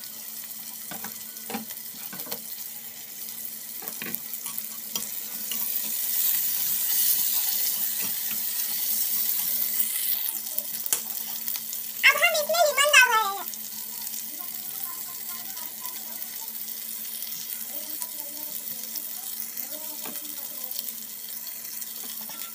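Tomato-onion masala sizzling in oil in a pot while a metal spatula stirs it, clicking and scraping against the pot a few times near the start, the hiss swelling for several seconds. About halfway, a loud wavering high-pitched cry cuts in for a second or so.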